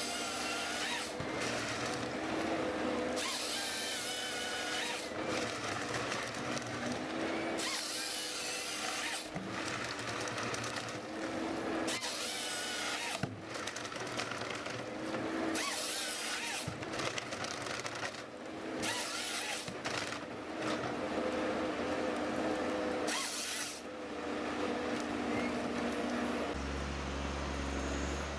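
A power tool's motor runs with a steady whine, broken every few seconds by loud hissing bursts a second or two long, as in repeated work on wood. Near the end it gives way to a low engine hum.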